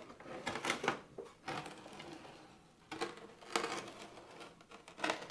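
Metal axle hub parts and tools clinking and knocking as they are handled, about half a dozen irregular sharp clicks.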